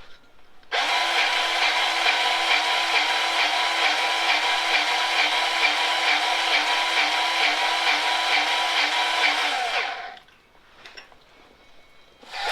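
Lincoln PowerLuber battery-powered grease gun's motor running steadily for about nine seconds as it pumps grease through a Lock N Lube coupler locked onto a grease fitting, then stopping.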